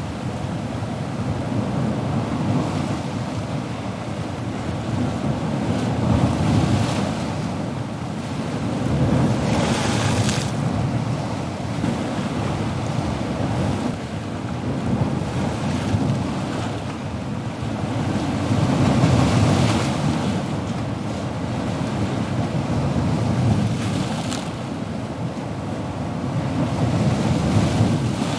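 Ocean waves breaking and washing on a shore, a continuous surf rumble that swells and ebbs every few seconds, with a brighter hissing wash about 10 seconds in.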